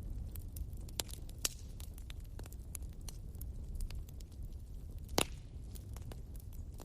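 Wood bonfire crackling, with scattered sharp pops and snaps over a steady low rumble. One louder pop comes about five seconds in.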